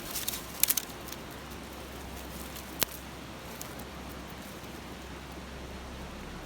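Wood campfire crackling, with a quick run of sharp pops under a second in and a single loud pop near the three-second mark, over the steady rush of a babbling stream.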